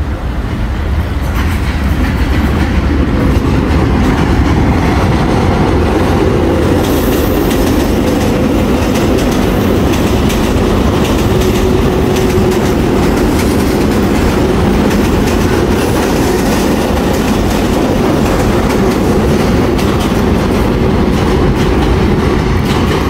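Passenger train crossing a steel girder railway bridge overhead. Its wheels on the rails make a loud, steady rolling noise that builds over the first second or so and then holds.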